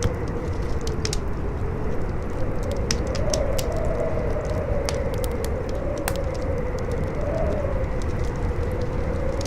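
Campfire crackling with irregular sharp pops, over strong wind howling in a wavering tone that rises and falls every second or two, with a steady low rumble beneath.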